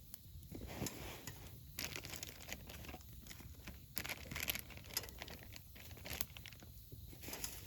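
Crinkling and rustling handling noises with scattered sharp clicks, coming in irregular bursts.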